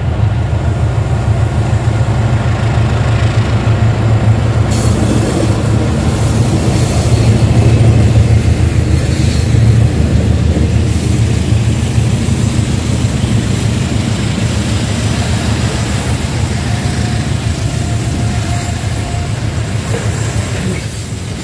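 Diesel locomotive and a train of flat wagons loaded with long rails passing slowly and close, a steady heavy rumble of engine and rolling wheels. About five seconds in, a hiss of wheel and rail noise joins the rumble as the wagons roll by.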